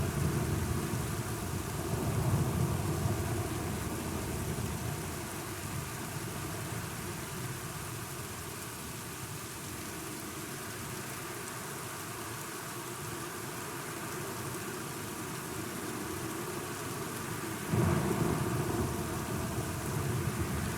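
Steady rain with thunder. A low rumble of thunder swells and fades over the first few seconds, and a sudden, louder thunderclap breaks in near the end.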